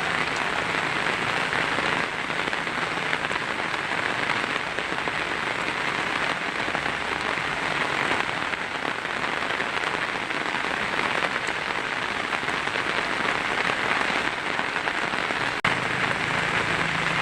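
Heavy rain drumming steadily on a tin roof, a dense even hiss of drops. A single sharp click with a momentary dip comes near the end.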